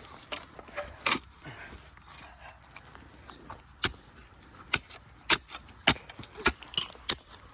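Shovels digging into dirt: a series of short, sharp scrapes and clinks of metal blades in the ground, coming more often, about one a second, in the second half.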